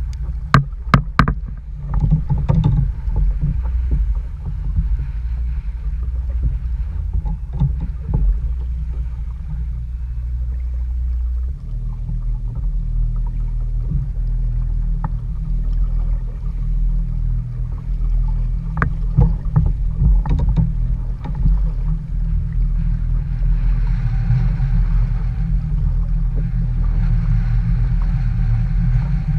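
Wind buffeting the microphone: a loud low rumble, with scattered clicks and knocks.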